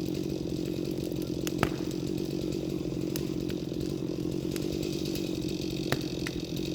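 Stihl chainsaw engine running at a steady, unchanging speed, with a few sharp clicks over it, the loudest about a second and a half in and again near the end.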